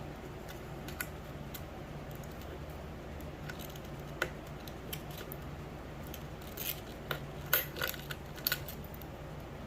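Metal wire hangers and clips being handled: scattered small clicks and clinks, coming thicker in the second half, over a steady low hum.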